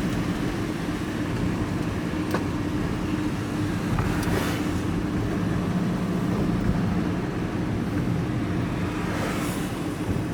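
Van engine and road noise heard from inside the cab while driving: a steady rumble with a low hum, and a couple of brief swishes about four and nine seconds in.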